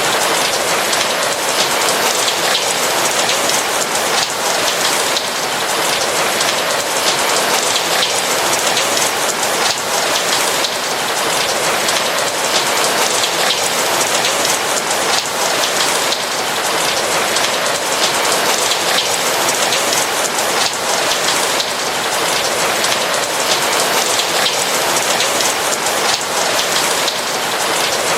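Steady rain, a dense, even patter of raindrops with no thunder.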